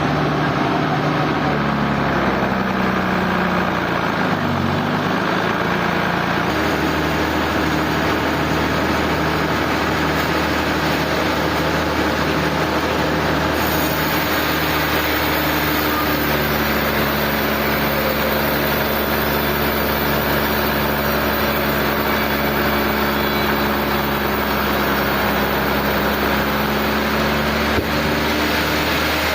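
Sawmill machinery running steadily, with the engine's pitch dipping and recovering a few seconds in, then settling into a new steady drone.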